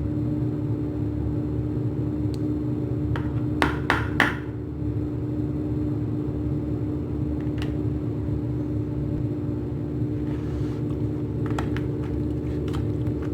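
Steady low machine hum with a constant tone, like a motor or fan. Three sharp clicks or knocks come in quick succession about three and a half seconds in, with a few lighter clicks later.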